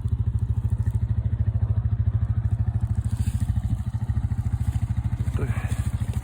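An engine idling steadily nearby, a low rumble with a fast, even pulse.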